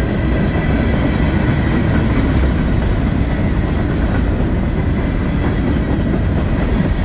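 CSX mixed-freight cars rolling past at track side: a steady, loud rumble of steel wheels on the rails.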